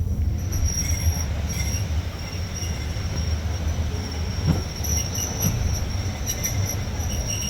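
Railway carriage wheels squealing steadily on the rails over a continuous low running rumble from a moving train.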